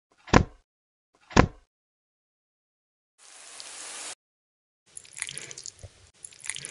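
A spoon knocked twice against a glass mixing bowl, then liquid poured onto the flour for about a second. Near the end comes the wet squelching of a spatula mixing sliced onions into thick pakora batter.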